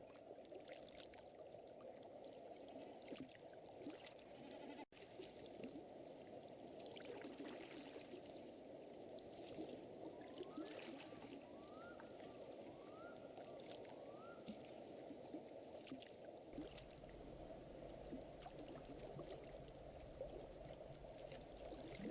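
Faint lakeside nature ambience: a campfire crackling over a steady low water-like hiss. A few short rising animal calls come in a quick run around the middle, and a low rumble joins near the end.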